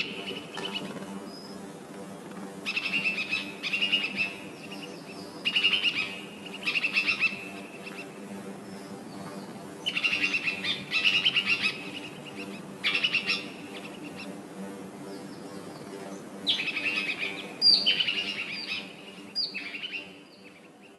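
Small birds chirping in short bursts of rapid, high notes, about nine bursts in all, every second or two, over a steady low hum.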